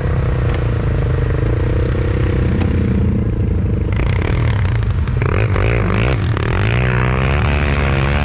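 Quad bike (ATV) engine running under load as the machine tries to climb out of a rut in packed snow. The engine is fairly even at first, then the revs rise and fall repeatedly in the last seconds as the quad gets hung up on the rut.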